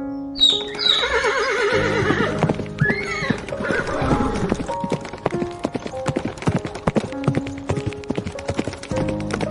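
Horse whinnying, a wavering call that falls in pitch, followed by a run of hoofbeats clip-clopping, over background music.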